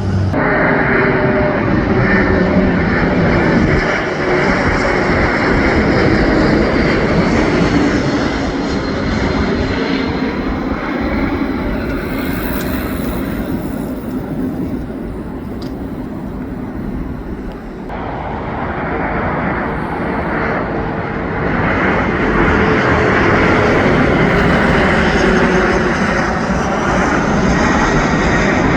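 Jet airliner on final approach passing low overhead: loud engine noise with a faint whine that slowly falls in pitch. It eases off for a few seconds around the middle, then builds again.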